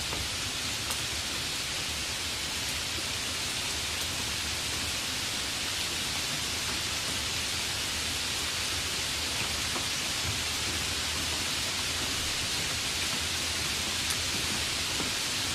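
Steady rain: an even, continuous hiss with a few faint drop ticks.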